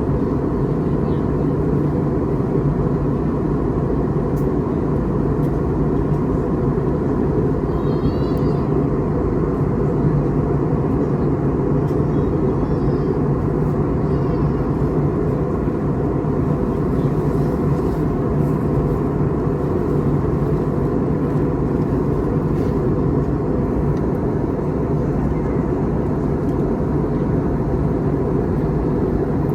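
Steady cabin drone inside an Airbus A321neo in flight: engine and airflow noise, low and unchanging.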